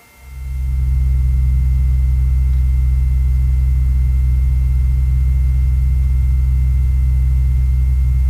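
Cessna 182F's six-cylinder piston engine and propeller running steadily, heard from inside the cabin as a loud, even low drone with a thin steady whine above it. It fades in over the first second.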